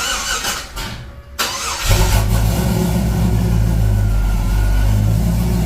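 Car engine started: the starter cranks for a couple of seconds, then the engine catches about two seconds in and settles into a steady idle.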